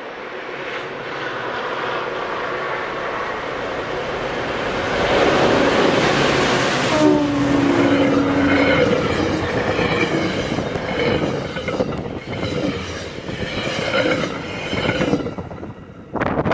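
MBTA diesel commuter train passing at speed, building over the first five seconds as the locomotive comes through. The coaches then rumble past, their wheels clattering rhythmically over the rail joints.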